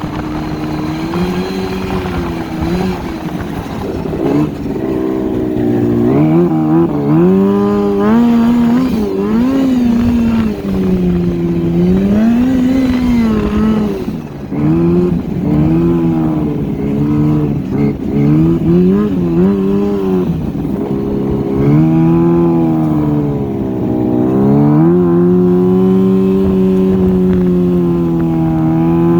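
Turbocharged Yamaha Apex snowmobile's four-cylinder four-stroke engine, running 12 lb of boost from a McXpress 280 turbo kit. It revs up and falls back again and again as the throttle is worked, then holds a steady high pitch near the end.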